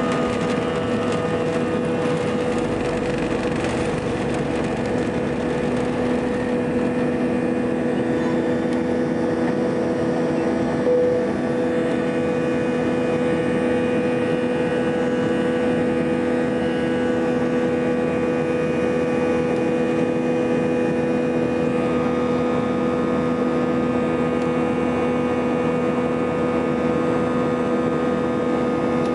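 Airbus A320 jet engines running steadily during the climb after takeoff: a constant roar with several steady held tones through it.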